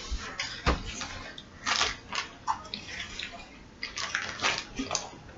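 A snack being bitten and chewed, with a few short, dry crunches spread through.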